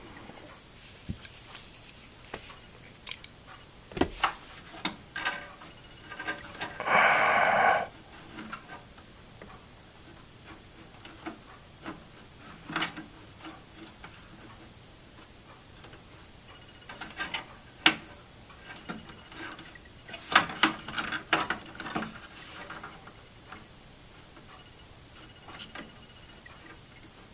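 Screws being driven into a computer case's metal drive bay by hand screwdriver: scattered small metallic clicks and knocks, with one louder grating sound lasting about a second around seven seconds in, and bursts of clicking in the second half.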